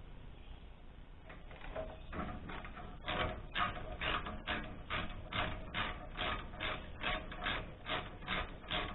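Ratchet wrench working a bolt in quick, even strokes, about two and a half clicking strokes a second, after some brief handling noises.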